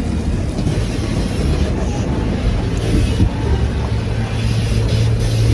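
Automatic car wash machinery working over a car, heard from inside the cabin: a steady low rumble with a constant hum.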